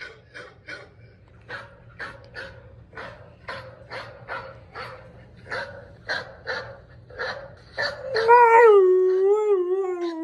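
Dog barks repeated about twice a second over a low hum for about eight seconds, then a German shepherd breaks into a loud howl that wavers and slides down in pitch.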